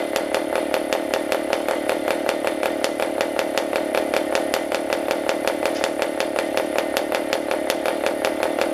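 PAW 40 TBR model diesel (compression-ignition) engine running steadily with a high, buzzing note as it spins an APC 11x8 propeller, with a regular pulsing several times a second.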